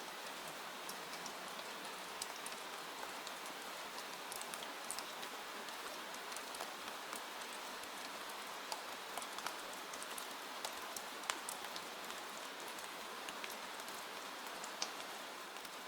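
Steady rain falling, an even hiss with scattered sharp ticks of drops and crackles throughout.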